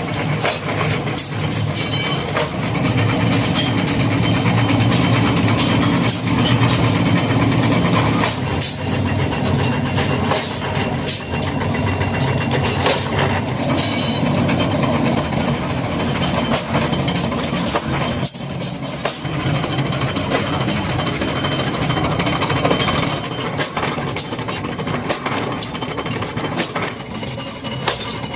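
Workshop machinery running with a steady engine-like drone, with frequent metallic clanks and knocks throughout; the drone eases somewhat about two-thirds of the way through.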